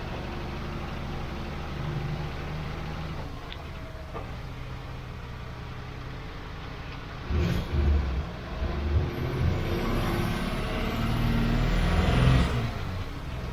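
Mercedes-Benz Unimog 404's petrol straight-six engine running as the truck drives. It is steady at first, then from about halfway in it gets louder and uneven, with surges and thumps.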